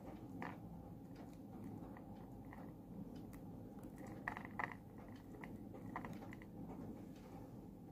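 Faint chewing and biting of food close to the microphone, with scattered light clicks and a pair of sharper ones a little past halfway, over a low steady hum.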